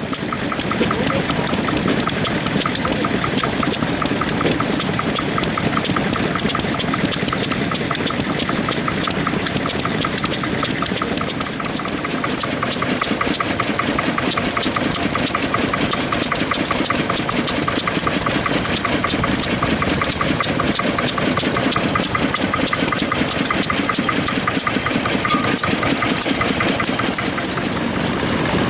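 Old stationary engine running close by with a steady, rapid firing beat; the sound comes in loudly at the start and holds.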